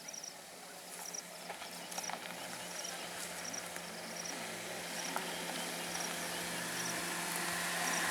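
Outdoor rural ambience with an insect chirping in short high pulses, about once a second, over a steady background hiss that grows louder.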